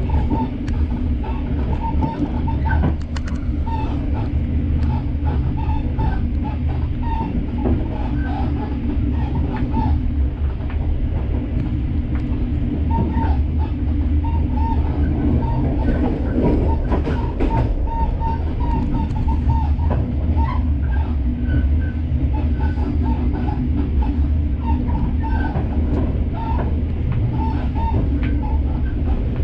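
Passenger train running along the track, heard from inside the carriage: a steady low rumble with scattered clicks and knocks from the wheels and rails.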